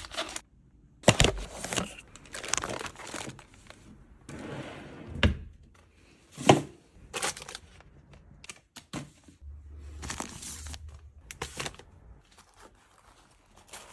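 Packaging crinkling and rustling as items are handled and unpacked, broken by several sharp knocks of things being set down, the loudest about a second in and twice more around five and six and a half seconds in.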